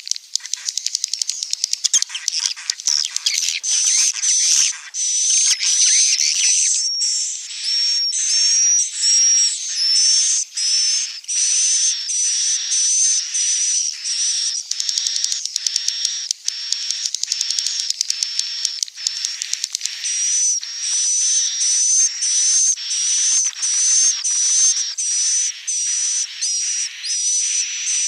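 Swiftlet calls: a dense, steady stream of high-pitched chirping and twittering, at first jumbled, then settling into rapid pulses broken by short gaps about twice a second. It is the kind of recording played as a lure to draw swiftlets to nest.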